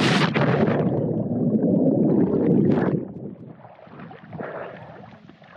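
A person jumping into the sea: a splash, then about three seconds of loud churning, bubbling water that stops abruptly, followed by quieter splashing.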